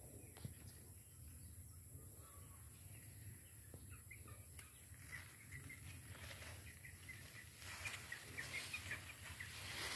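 Birds chirping in the garden, faint at first, then a quick run of short high notes over the last few seconds, above a steady low rumble.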